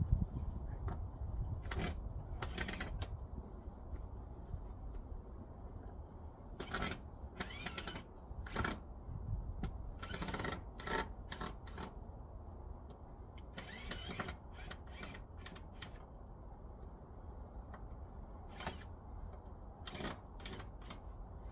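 Irregular clanks, clicks and scrapes of a metal heat-pump cover being handled and fitted into place, over a steady low rumble.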